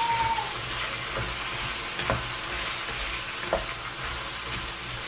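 Diced tomatoes and red and green bell peppers sizzling in a frying pan as they are stirred with a wooden spatula, with a few light knocks of the spatula against the pan. A held high tone fades out just after the start.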